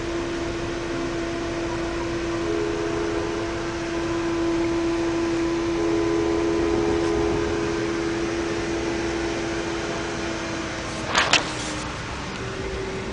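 Steady running noise of a moving Amtrak passenger train heard from inside the coach, with a steady hum through most of it. Two sharp knocks about eleven seconds in.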